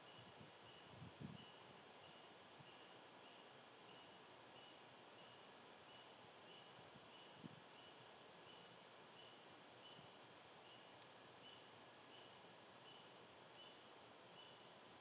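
Faint outdoor background hiss with a cricket chirping steadily, one short chirp about every two-thirds of a second. Two soft low thumps come about a second in and again about halfway through.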